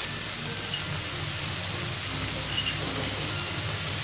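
Onion and tomato masala sizzling steadily in ghee in a frying pan, with a few faint pops.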